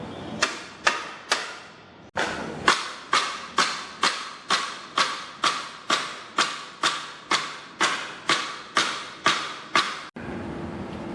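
A struck object ringing in an even, rapid series of strikes, a little over two a second, each ringing out briefly; the series breaks off for a moment about two seconds in.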